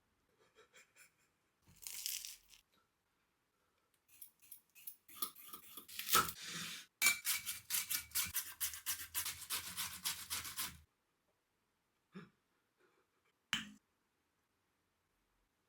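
Close-miked crunching and tearing of bread being eaten: a short crackle about two seconds in, then a long run of fast, crisp crunches, then two soft clicks near the end.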